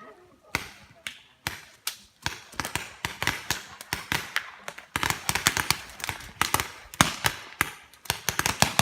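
Paintball markers firing: sharp pops, spaced out at first, then coming thick and fast in irregular volleys from about halfway in.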